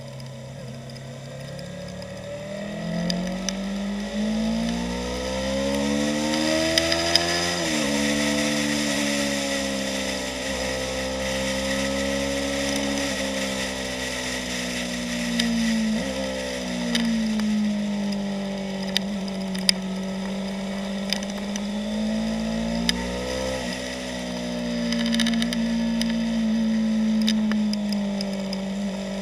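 Yamaha YZF-R3's 321 cc parallel-twin engine under way at track speed, its revs climbing and falling through gear changes: a sharp drop about eight seconds in and quick jumps in pitch around sixteen and twenty-four seconds in. Steady wind rush over the top.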